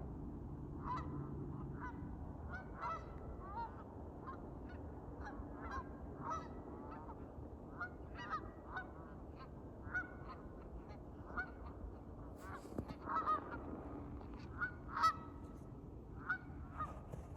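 Domestic geese honking: many short calls in quick succession, the loudest near the end, over a steady low hum.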